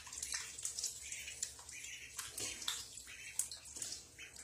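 Ducklings splashing and paddling in bathtub water, with irregular small splashes and short peeps.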